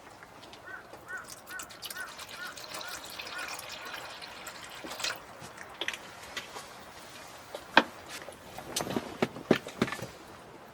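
Small dog eating from its bowl: scattered sharp clicks and knocks, with a cluster of them near the end. Early on there is a quick run of about eight short, high chirps.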